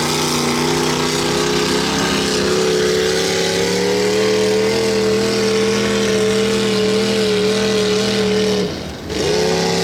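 Mud truck engine held at high, steady revs under load, its pitch creeping up and then easing a little. Near the end the revs drop for a moment and come straight back up. The rig is running hot, its transmission overheating.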